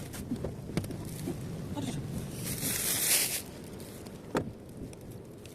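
Low, steady rumble of a car, with a brief hiss about two and a half seconds in and a couple of sharp clicks.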